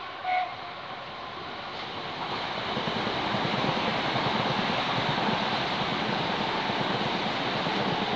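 A passenger train gives one short horn toot just after the start, then runs past close by. Its rumble and wheel-on-rail noise build from about two seconds in and stay steady and loud.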